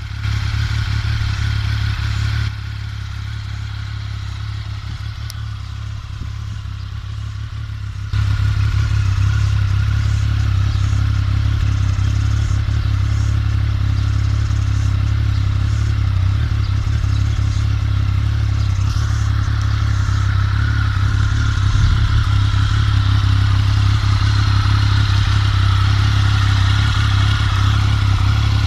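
2007 Triumph Tiger 1050's three-cylinder engine idling steadily through an aftermarket Storm GP exhaust. It drops in loudness a couple of seconds in and comes back louder about eight seconds in.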